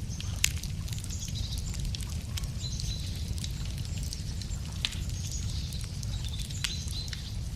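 Wood fire crackling, with sharp pops every second or so, the loudest about half a second in and near five seconds, over a steady low rumble. Small birds sing high chirping phrases in the background.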